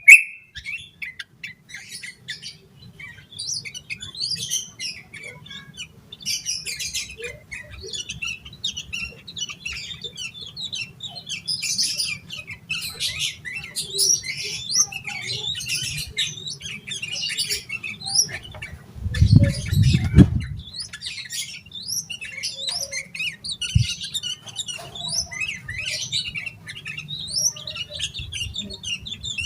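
A yellow-vented bulbul (trucukan) sings and chatters busily in a rapid stream of varied, sharp notes, with a steady low hum underneath. A brief low rumble comes about two-thirds through, with a single sharp click soon after.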